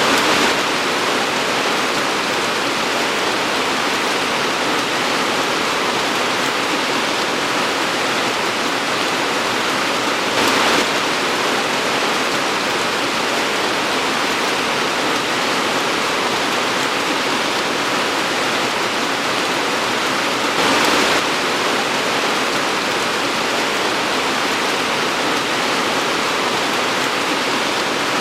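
Torrential rain pouring steadily, a dense even hiss, with a brief louder swell about every ten seconds.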